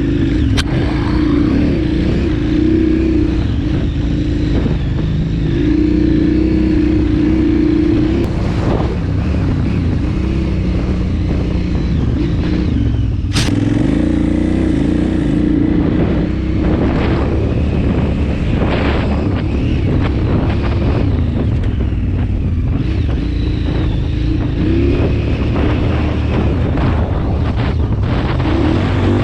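KTM 990 Adventure's LC8 V-twin engine running at changing revs, the pitch rising and falling as the throttle opens and closes. A few sharp knocks are heard, one near the start and one about a third of the way in.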